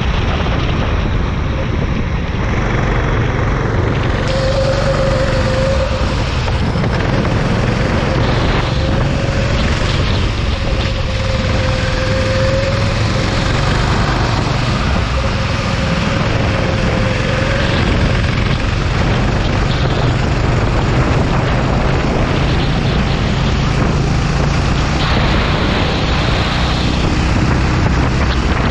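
Go-kart engine running steadily at racing speed under a dense rushing noise. A wavering whine rises and falls several times through the first half.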